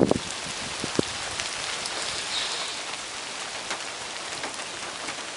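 Heavy rain falling steadily: a dense hiss of rain with many individual drops ticking close by, a few louder drop hits in the first second.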